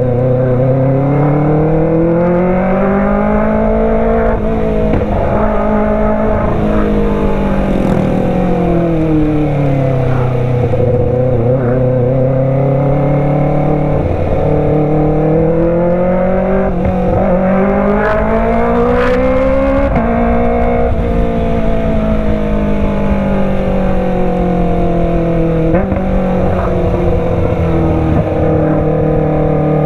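Kawasaki ZX-25R inline-four engine running through a Racefit Slash full-system exhaust, its pitch rising and falling smoothly several times as the throttle is opened and eased off.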